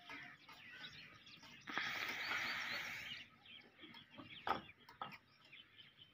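Birds chirping busily in many short, overlapping calls. About two seconds in there is a loud hissing rush lasting about a second and a half, and there are a couple of sharp clicks later on.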